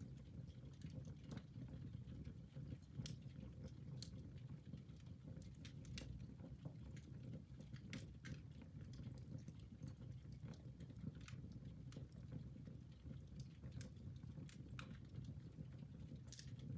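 Wood fire crackling in a fireplace: faint, irregular sharp pops and snaps several times a second over a steady low rumble.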